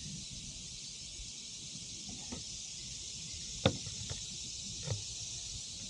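A steady high insect chorus of cicadas or crickets, with a few light knocks, the sharpest about halfway through.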